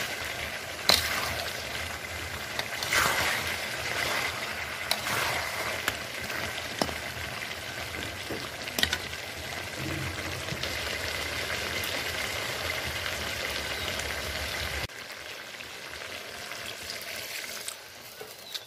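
Chicken and potato curry sizzling in a metal pot as a spatula stirs and scrapes it in sweeps every couple of seconds, with only a little water in the masala. The sizzle drops quieter near the end.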